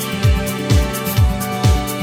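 Electronic background music with a steady kick drum beat, about two beats a second, over held synth chords.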